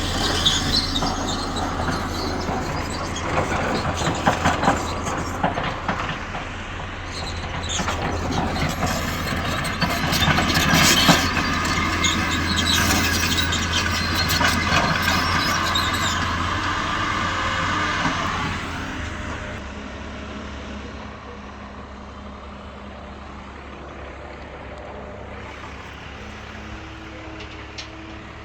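Heavy diesel engine of a backhoe loader or truck running steadily, with scattered knocks and a whine between about 8 and 19 seconds in. It drops to a lower, quieter running about 19 seconds in.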